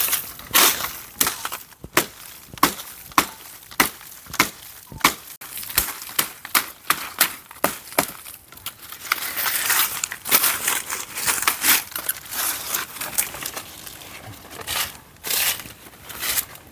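Dry wood and dead leaves crunching and cracking in a steady series of sharp strikes, a little under two a second, with a denser stretch of crackling in the middle and more strikes near the end.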